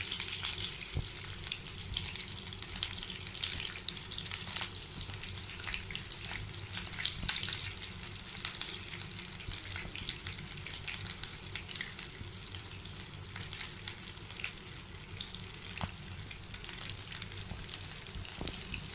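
Egg-coated potato nuggets shallow-frying in hot oil in a pan: a steady sizzle dotted with small crackling pops.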